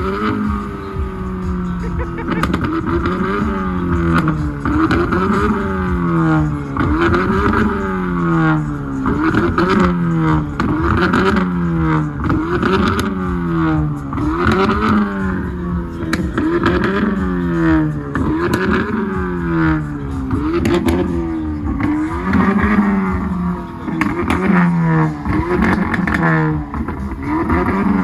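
Car engine revved over and over, its pitch climbing and dropping back roughly every two seconds in a steady rhythm.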